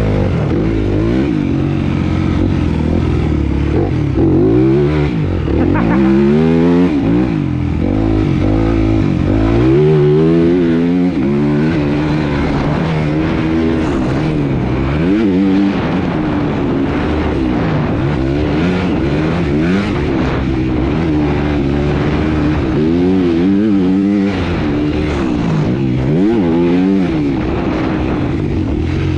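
Motocross motorcycle engine revving hard and easing off again and again, its pitch climbing and dropping every second or two as the bike is ridden around the track.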